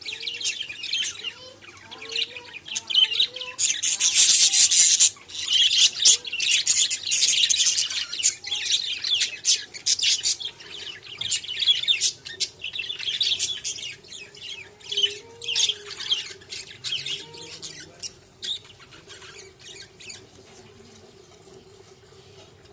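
A pet parrot chirping and squawking in a rapid run of shrill calls. The calls are thickest in the first half, then thin out and fade near the end.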